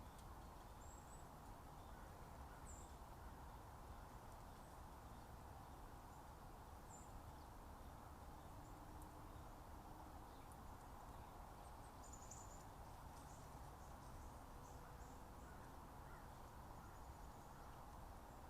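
Near silence over a steady low background hum, with a few faint, brief high-pitched bird chirps scattered through it, a small cluster of them about two-thirds of the way in.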